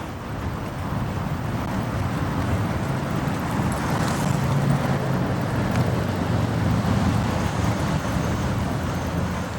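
Motorcycle engine running at low road speed in city traffic, with road and wind noise. Its note strengthens a little a few seconds in, then eases back.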